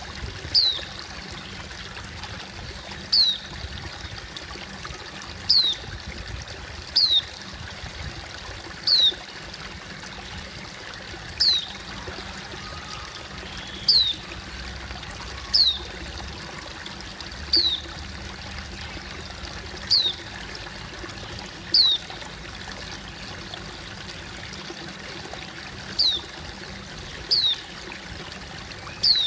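A wild white-eye (pleci) repeats a short, high, down-slurred call about fourteen times, every couple of seconds. Behind it is the steady rush of running water.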